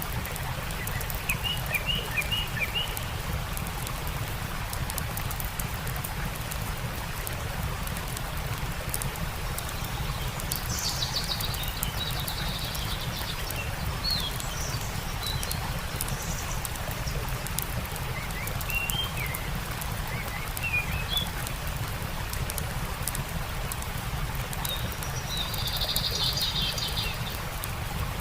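Campfire crackling with a steady rush of stream water underneath, and birds chirping in short bursts several times.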